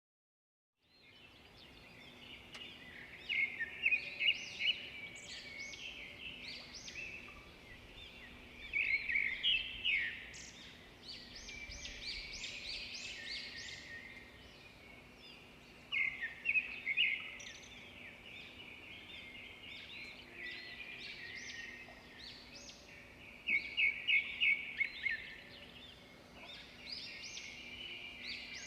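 Birds chirping and singing, with clusters of quick, loud chirps coming every few seconds over softer calls. A faint steady low hum runs underneath. The sound starts after about a second of silence.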